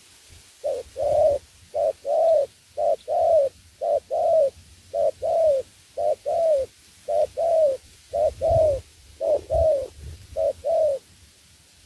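Spotted dove cooing close by: about ten two-part coos, each a short note followed by a longer arched one, repeated roughly once a second until about a second before the end.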